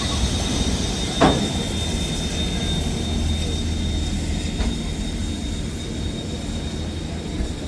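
Train moving on the rails: a steady low rumble with one sharp clank about a second in and a fainter one later, and a thin steady high tone throughout.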